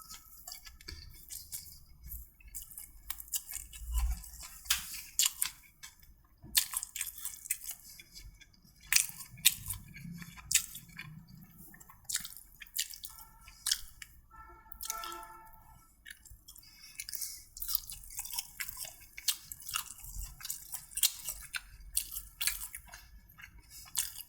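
Chewing and crunching close to the microphone as chicken fried rice is eaten, with many small, sharp crisp clicks from the fresh leeks, carrots and onions in the rice.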